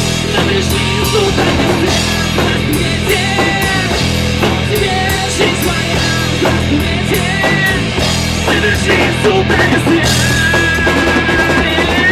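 Rock music with a driving drum kit and a held high melody line: an instrumental passage of a song.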